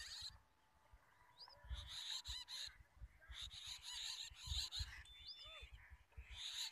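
Faint bird calls: bursts of short, high chirping notes with quieter gaps between them, over low rumbling bumps.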